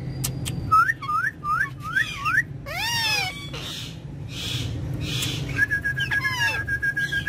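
Ringneck parrots whistling and calling: a quick run of five rising-and-falling whistled notes, then falling squawky calls, and a long steady whistled tone held near the end. A low steady hum sits underneath.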